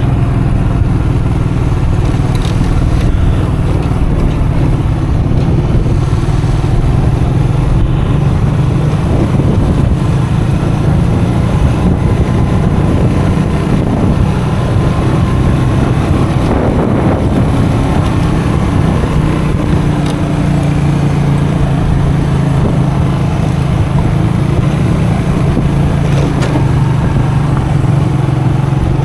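Custom motorcycle engine running steadily while riding, under a constant rush of wind and road noise; the engine note goes rougher for a few seconds about halfway through, then steadies again.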